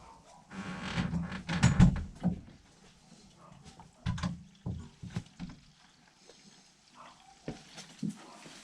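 Knocks, clunks and a scraping, rushing stretch of hand work in an HVAC unit's drain pan area: a longer noisy scrape with knocks during the first two seconds, then a few separate knocks spaced out.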